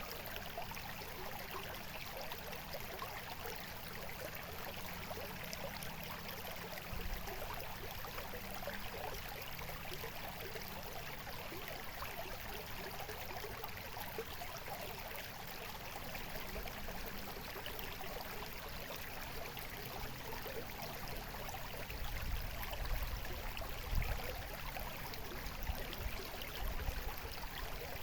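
Shallow stream of water babbling and trickling steadily. Some low, dull bumps come about a quarter of the way in and again in the last few seconds.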